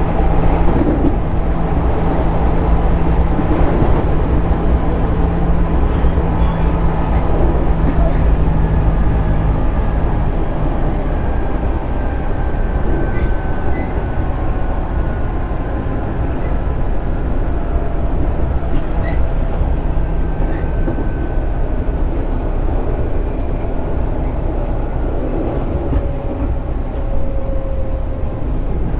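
Running sound inside a JR Central 211 series 6000 subseries electric train: a steady rumble of wheels on rail with motor and gear noise. A low steady hum cuts out about ten seconds in, and later faint whines slide slowly down in pitch.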